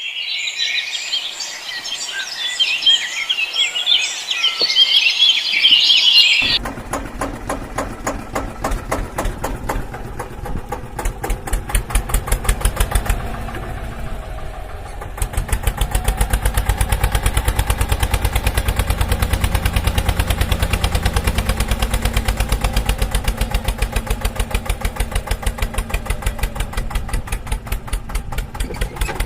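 Birds chirping, then about six seconds in a tractor engine cuts in, running with a steady, fast pulsing beat that grows louder about halfway through.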